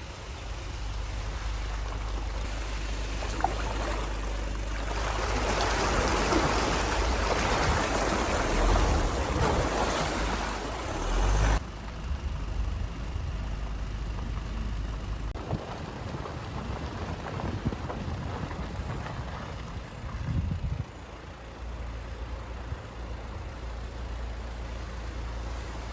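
A vehicle on the move: a steady low engine and road rumble with a rush of tyre and wind noise that swells and then drops away abruptly about twelve seconds in.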